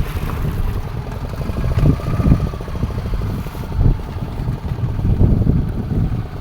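A fishing boat's engine running steadily, a low rumble with a fast even beat.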